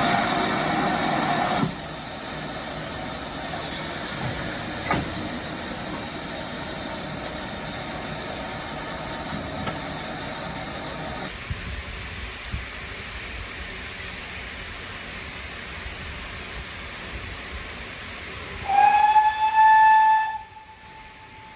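Steam locomotive whistle from a GWR 5600-class 0-6-2 tank engine, blown once for nearly two seconds near the end, its pitch bending up as it opens. Before that comes a steady rushing noise, with a loud burst of hiss lasting under two seconds at the start.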